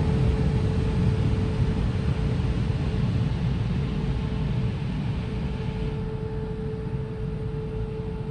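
Automatic car wash air dryer blowing, heard from inside the car: a steady rushing noise with a constant whine, slowly fading as the drying pass nears its end.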